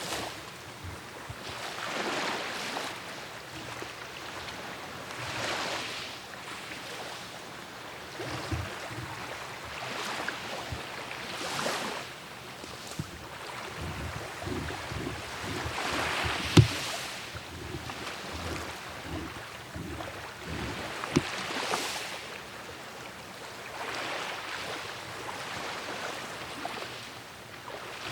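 Sea waves washing onto the shore, swelling and fading every few seconds, with some wind on the microphone. Two sharp knocks stand out, the louder one a little past halfway and a second a few seconds later.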